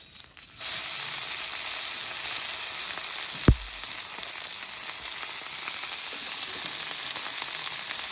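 Meat sizzling on a hot 6 mm-thick steel griddle plate. The sizzle starts suddenly about half a second in, as the meat goes onto the plate, then holds steady, with a single dull thump near the middle.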